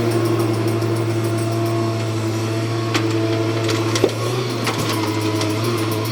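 Diesel engine of a Hyundai 210W wheeled excavator running steadily under work, with a few short sharp knocks, the clearest about four seconds in.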